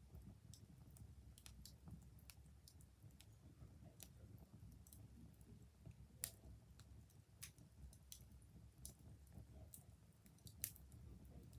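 Wood fire crackling, with irregular sharp pops, two louder ones about six seconds in and near the end, over a faint low rumble.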